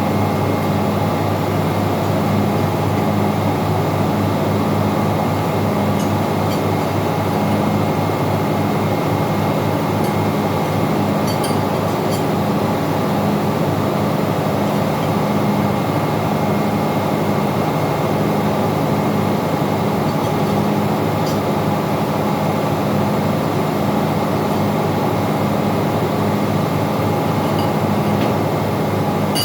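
Steady, loud machinery noise of a ship's engine room, with a low hum that pulses about one and a half times a second and a faint steady high whine.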